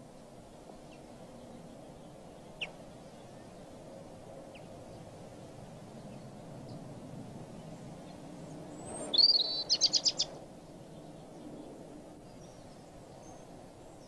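A bird calling once over faint, steady background ambience: a sharp high chirp followed by a quick run of six or seven high notes, about nine seconds in.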